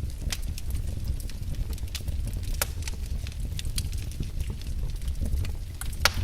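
Wood logs burning in a fireplace: a steady low rumble of the fire with frequent sharp crackles and pops, one louder pop near the end.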